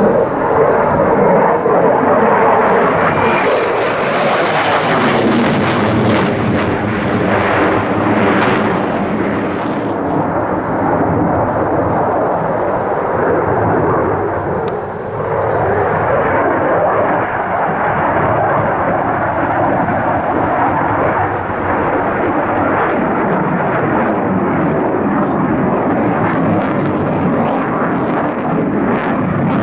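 Loud engine noise of a display aircraft flying past, with sliding pitch and a bright hiss in the first ten seconds or so, then a steady continuing rumble.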